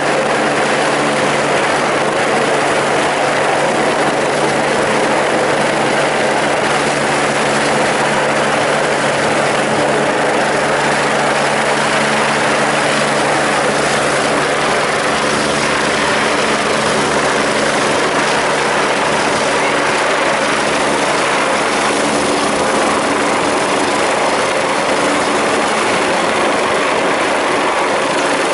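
Sécurité Civile EC145 helicopter's turbines and rotor running steadily: a loud, even noise with steady engine tones.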